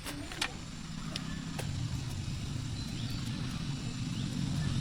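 An engine running with a low rumble that grows steadily louder, with a few sharp clicks and faint chirps over it.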